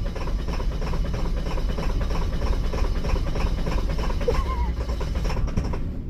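Ford 7.3L Power Stroke V8 turbo-diesel idling cold, with a fast, even diesel clatter over a low rumble. It eases off slightly near the end.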